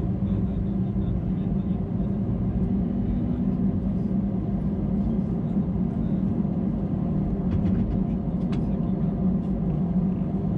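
Steady low drone inside the cabin of an Airbus A319-112, with a few faint clicks about three-quarters of the way through.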